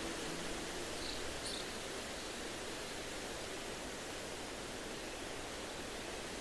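Steady wind rustling through trees, with a bird giving two short high chirps about a second in.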